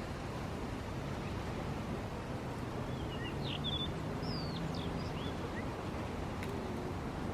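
Steady outdoor wind noise with a bird giving a quick series of short chirps and whistles in the middle. A faint low hum sits under it for a couple of seconds.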